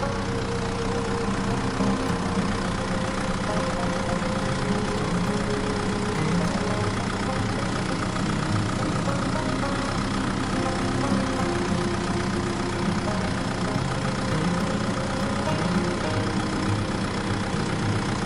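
An engine running steadily at idle, an even low drone with no change in speed.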